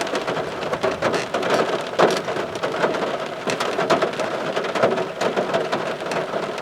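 Heavy rain hitting a car's roof and windows, heard from inside the car: a steady patter of many close, irregular drop hits.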